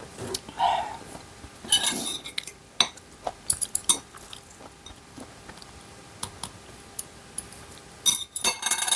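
Tableware clinking and clattering: utensils knocking against bowls and dishes in scattered clicks, with two busier bursts of clatter, one about two seconds in and one near the end.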